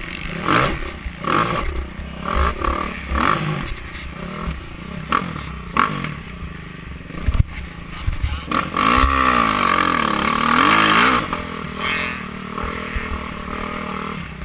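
Motocross dirt bikes racing. About nine seconds in, a bike comes close, its engine revving up and down for a few seconds, the loudest part. Before that there is a rumble of irregular bursts.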